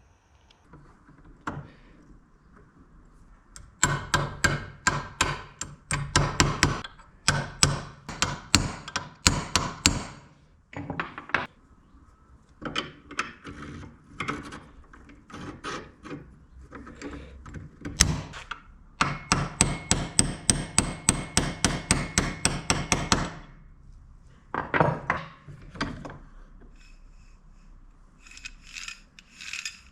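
Bursts of rapid, evenly spaced tapping strikes, several a second, each run lasting a few seconds with short pauses between, like light hammer taps.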